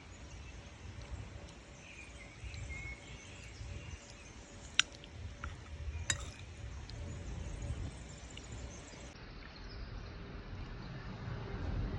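Outdoor ambience: a low steady rumble with a few faint bird chirps, and two sharp clicks about a second apart midway.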